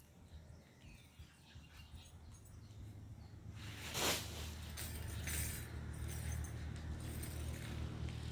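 Thunder: a low rumble builds from about three seconds in. A sharp crack comes about four seconds in, and the rumble carries on after it.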